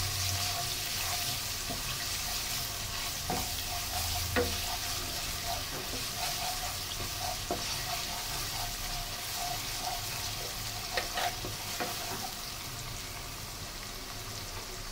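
Ginger-garlic and cumin paste sizzling in hot mustard oil in a nonstick wok while a wooden spatula stirs and scrapes it, with a few knocks of the spatula against the pan: the spice paste being sautéed.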